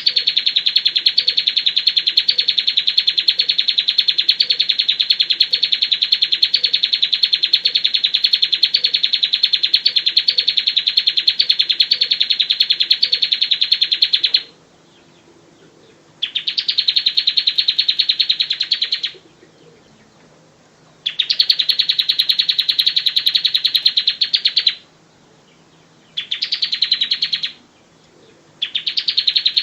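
Bar-winged prinia singing: rapid runs of repeated high notes. One long trill lasts about fourteen seconds, then shorter bouts follow with brief pauses between them.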